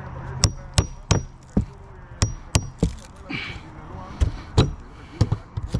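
Hammer striking metal while roofing nails are worked loose from asphalt shingles: a dozen or so irregular sharp blows, several with a short high metallic ring.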